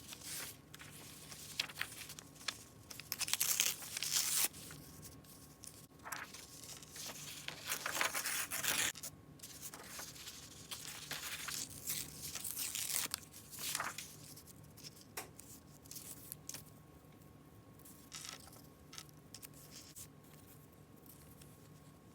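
Paper being torn by hand in a series of ragged tears with some crinkling, busiest in the first half and thinning out to a few short rips near the end.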